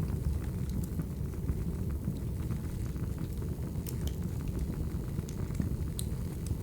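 Wood fire burning: a steady low rumble of flames with scattered sharp crackles and pops, the sharpest about four and six seconds in.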